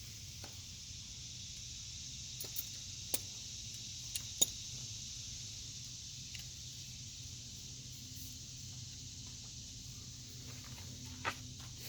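A handful of short, sharp metallic clicks and taps from hand tools and A/C fittings being handled, the loudest about four and a half seconds in and another near the end, over a steady high hiss and a low hum.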